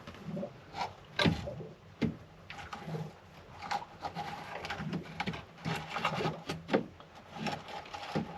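Irregular clicks, knocks and light clatter of tools and parts being handled, the sound of hands-on work on a marine air conditioner as its transformer is swapped.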